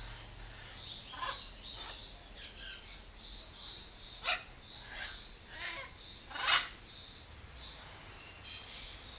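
Birds calling in an aviary: short harsh calls every second or so, the loudest about four and six and a half seconds in, over a steady high twittering of smaller birds.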